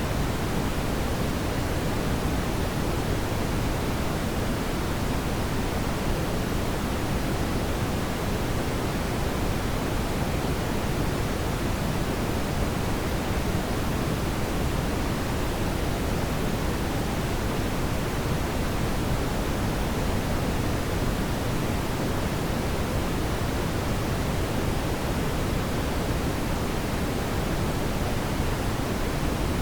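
Steady synthetic brown noise: an even, deep hiss weighted toward the low end, with no changes.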